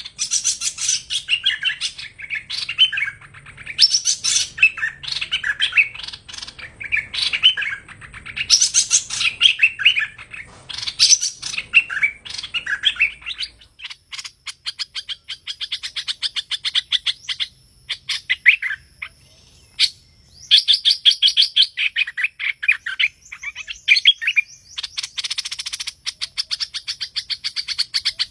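Hoành hoạch songbird singing a busy run of loud chirping phrases, the lively 'thơm' call used as a trapping lure. Past the halfway point it turns to rapid runs of short repeated notes broken by brief pauses.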